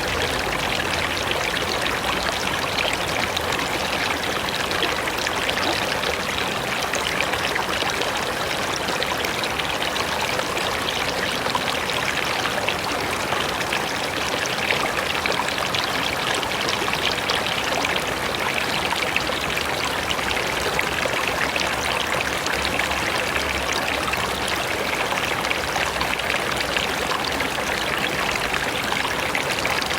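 A river or mountain stream running over rocks: a steady, even rush of water.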